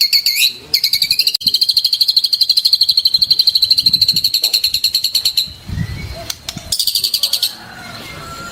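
Songbird singing loud, fast trills of rapidly repeated notes held at a steady high pitch, in long bouts broken by short pauses.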